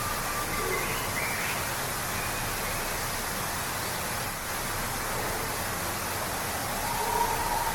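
Waterfall rushing steadily, with a few faint short bird calls over it.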